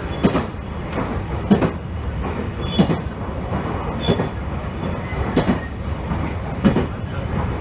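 Electric train running along the line, heard from inside the car: a steady rumble with the wheels clacking over rail joints about every 1.3 seconds.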